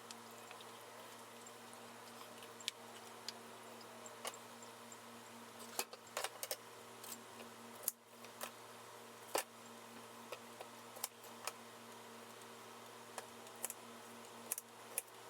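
Quiet room tone with a steady low hum and about a dozen light clicks and taps scattered through it, the sound of small objects being handled in a kitchen.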